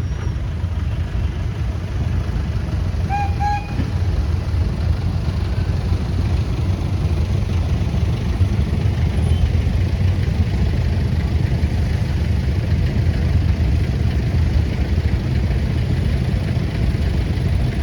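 Antique farm tractor engines running steadily with a deep, low rumble that grows a little louder about four seconds in. A brief high tone sounds about three seconds in.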